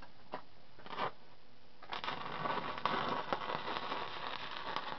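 Stick arc welding with a 7018 electrode on steel pipe: the arc strikes about two seconds in and then crackles steadily. Before it strikes there are only a couple of faint clicks.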